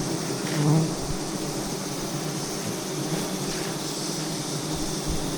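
Steady buzzing of a swarm of giant honey bees around their comb, with a short louder low sound just under a second in.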